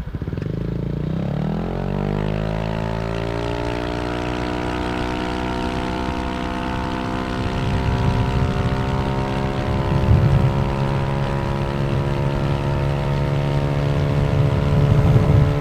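Yamaha Aerox 155's single-cylinder engine through a Villan SR1 aftermarket exhaust, revving up quickly over about two seconds and then holding a steady high pitch as the scooter accelerates.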